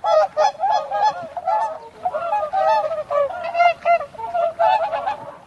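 A flock of geese honking: many short, rapid calls overlapping one another without a break.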